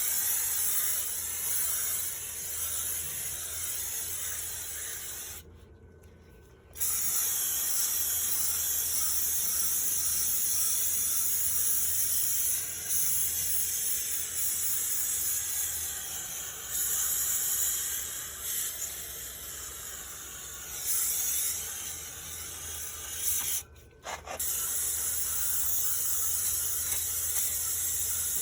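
Aerosol can of Nu-Calgon Nu-Blast condenser coil cleaner spraying onto an air conditioner's condenser coils: a steady hiss, stopping briefly twice, for about a second around six seconds in and for a moment late on.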